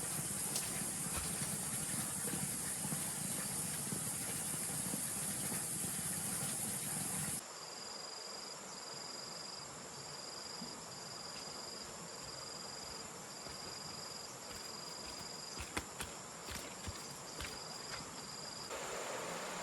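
Steady high hiss of insects buzzing in the open air. About seven seconds in it cuts abruptly to a quieter stretch where an insect calls in a repeated high trill, in short regular bursts, with a few light clicks near the end.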